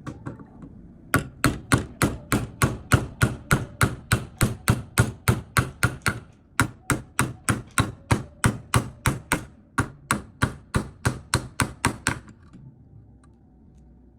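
Homemade hammer built from a T fitting, a bolt and a nut striking in a steady run of sharp blows, about three a second, with a short pause about six seconds in.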